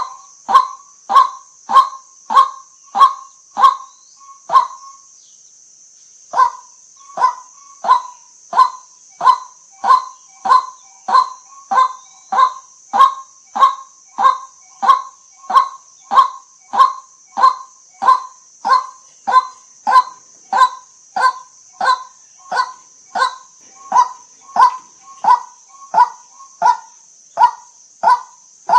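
White-breasted waterhen giving its repeated honking 'kwak' call, one sharp note after another. The calls come about two a second, pause briefly about five seconds in, then carry on at a steady, slightly slower rhythm.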